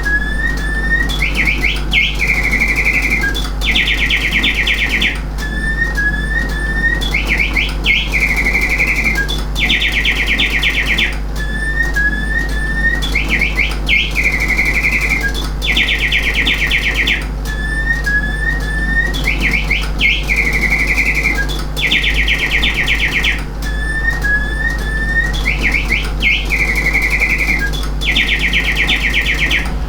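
Antique singing bird automaton (c.1880–1890) playing its mechanical birdsong. The phrase is a few short rising chirps, a warbling trill and then a fast, even trill, repeated about every six seconds, with a low steady hum underneath.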